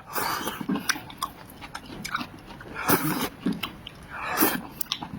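Close-up eating sounds: wet chewing with many sharp mouth clicks and lip smacks, broken by a few short breathy, noisy bursts.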